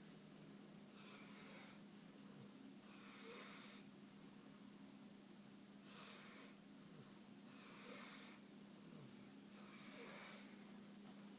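Pit bull snoring in its sleep: faint, raspy wheezing breaths in and out, repeating steadily about every second or two.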